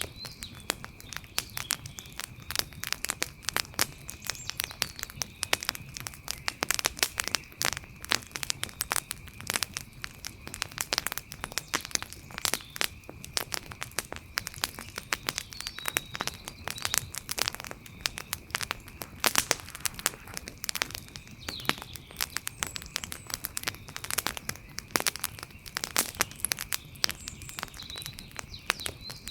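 Campfire of burning wood crackling: dense, irregular pops and snaps, with a faint steady high hum and a few faint chirps in the background.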